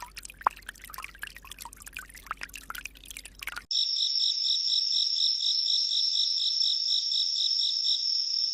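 Scattered short chirps and clicks, then, cutting in about four seconds in, a steady high insect-like trill pulsing about four times a second.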